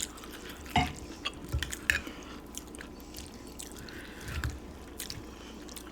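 A person chewing and eating a mouthful of pozole with lettuce close to the microphone: soft wet mouth sounds, with a few scattered short clicks and light taps.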